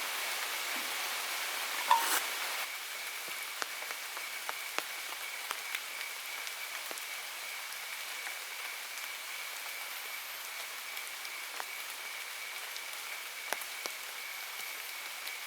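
Steady rain falling, with scattered single drops ticking sharply, a thin steady high tone running under it, and one louder knock about two seconds in.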